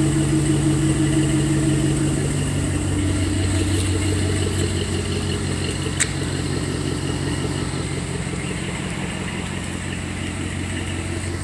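V8 engine idling through dual Black Horse mufflers with a deep, low exhaust note; the idle speed drops a little about two to three seconds in, then holds steady. A single sharp click about six seconds in.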